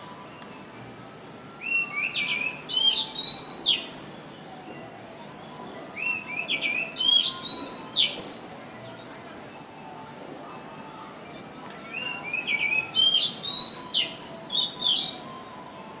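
A tiny songbird singing loudly: three phrases of rapid, high, twittering notes a few seconds apart, each lasting two to three seconds.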